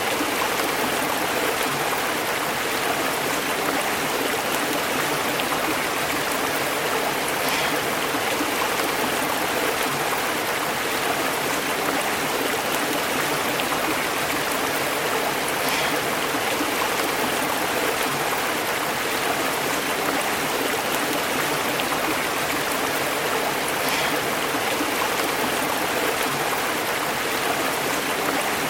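A stream burbling and bubbling over rocks: a steady, unbroken rush of flowing water.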